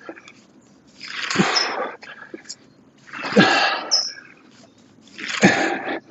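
A person breathing out hard and forcefully, three times about two seconds apart, during the effort of plank dumbbell pull-through reps.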